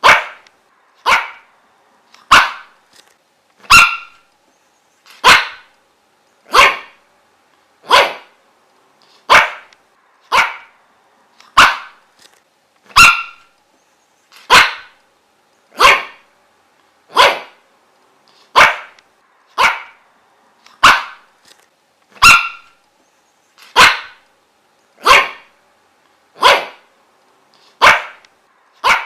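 A dog barking over and over in a steady rhythm: one short, sharp bark about every second and a quarter.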